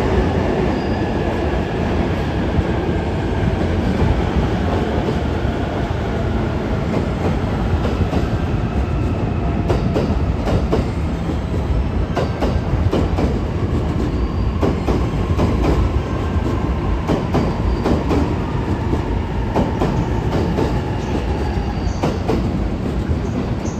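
JR East E257 series electric multiple unit pulling out of the platform and running past at close range, with a steady rumble as it gathers speed. From about ten seconds in, the wheels click more and more often over rail joints.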